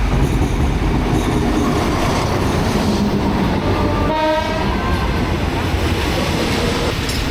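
A diesel passenger train pulling into the station with a heavy, steady rumble of engine and wheels on the rails. It gives a short horn blast about four seconds in.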